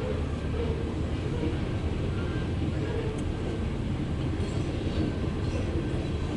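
Loaded coal train rolling past: a steady rumble of heavy hopper cars' wheels on the rails.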